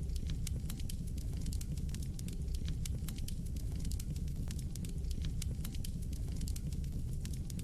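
Fire burning in a fireplace, crackling with many sharp, irregular pops over a steady low rumble.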